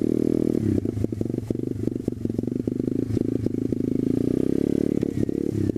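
SSR125TR pit bike's 125cc single-cylinder four-stroke engine running under varying throttle, its pitch dipping and rising, with scattered knocks and clatter as the bike rides over rough ground.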